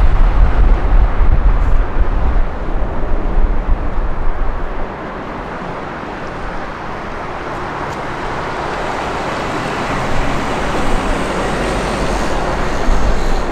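Boeing 747-400 freighter's jet engines: a loud, steady rushing noise. A heavy, uneven low rumble drops away about five seconds in, and the rushing then grows gradually louder toward the end.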